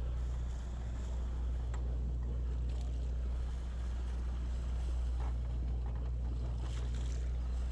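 A fishing boat's engine running with a steady low drone, with a few faint knocks over it.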